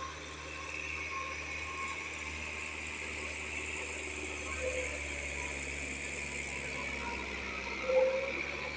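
Tractor engine running steadily. A brief louder sound comes near the end.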